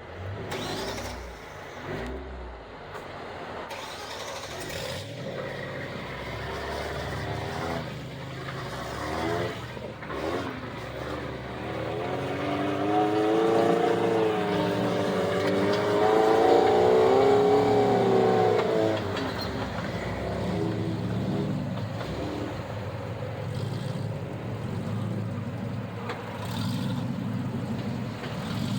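Off-road vehicle engine running and revving as it works up a rocky trail. The revs rise and fall for several seconds about halfway through, where it is loudest, then settle back to a lower steady run.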